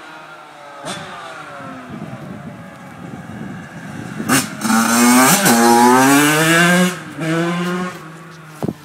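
Yamaha YZ85's single-cylinder two-stroke engine revving under throttle. It runs quieter with a slowly falling pitch at first. About four seconds in it gets loud, the pitch climbing and dropping for a couple of seconds, then there is a shorter burst of throttle.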